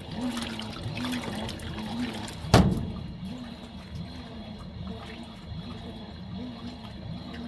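Fisher & Paykel MW059 top-loading washing machine agitating a load, its drive motor whining up and down in a regular rhythm, under a second per stroke, as the washer reverses, with water sloshing and hissing in the tub. One sharp thump about two and a half seconds in.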